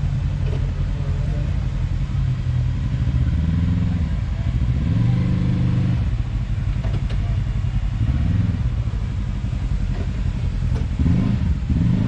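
Side-by-side UTV engine running at low speed on a rocky trail, revving up in several short bursts and dropping back between them.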